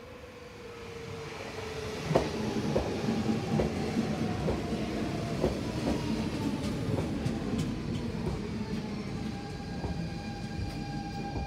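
Copenhagen S-train electric multiple unit running past, getting louder over the first two seconds. Its wheels click over rail joints at irregular intervals, and a whine falls slowly in pitch, then gives way to a steadier, higher whine in the second half.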